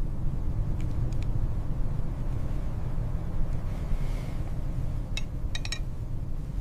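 Strong blizzard wind rumbling steadily, with a few short sharp crackles about five to six seconds in.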